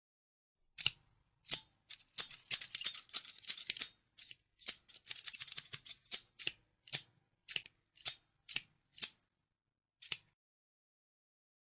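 Scissors snipping: a run of crisp cuts, some single and some in quick flurries, starting about a second in and stopping about two seconds before the end.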